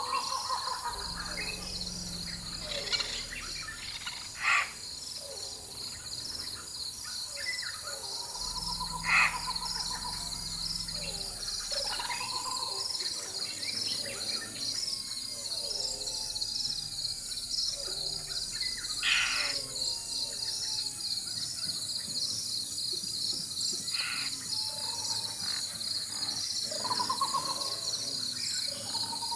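Rainforest ambience: a steady, pulsing high chorus of insects, with various birds calling over it in sharp single calls, descending whistles and short hooting phrases. A low rumble of distant thunder comes twice, about a second in and again around eight seconds in.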